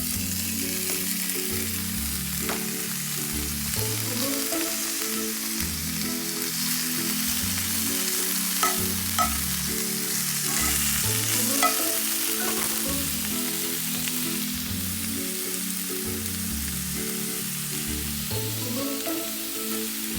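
Food sizzling steadily in a hot frying pan, with a few sharp taps, the loudest about nine and twelve seconds in. Soft background music plays underneath.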